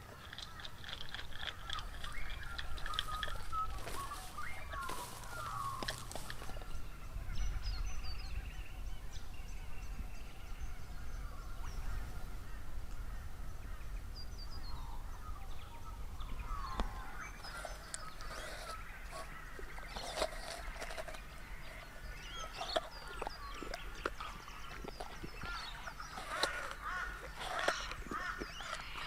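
Several birds calling and chirping in short, overlapping, gliding calls, with a low rumble underneath.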